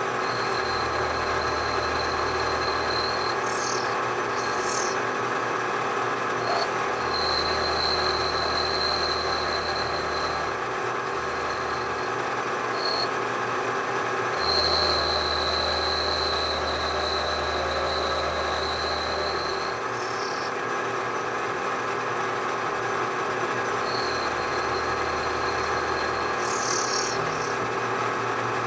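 Bridgeport milling machine running, its noise steady, with a high whine and a low hum that come on and cut off together four times.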